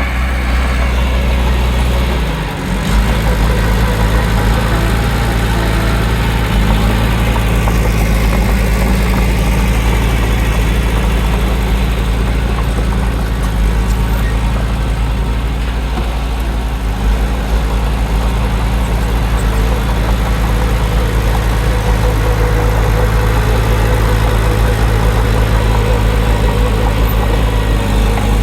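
Heavy earthmoving machine's diesel engine running steadily with a deep, even drone, dipping briefly about two and a half seconds in.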